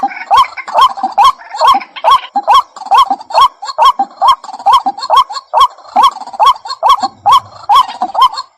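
White-breasted waterhen calling: a steady run of short, rising 'kwak' notes, about three a second.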